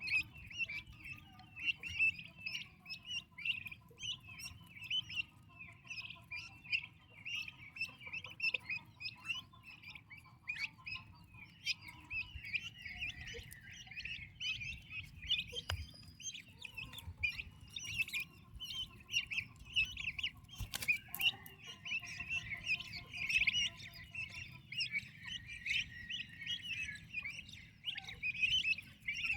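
A brood of turkey poults peeping continuously: many rapid, high, overlapping chirps.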